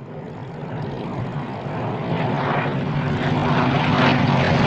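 Exhaust of a BMW R1200GS K50's liquid-cooled boxer twin running at a steady speed through an Akrapovic slip-on silencer with the dB killer removed, growing steadily louder.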